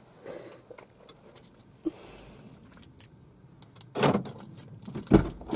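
Car keys jangling with small clicks, then two knocks, the second a deep thud like a car door shutting near the end.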